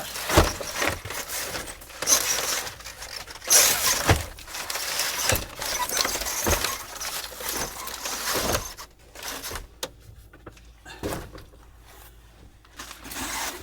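Cases of bottled water and gallon plastic jugs being handled and stowed: an irregular run of knocks, thumps and plastic rustling, which goes quieter for a few seconds near the end.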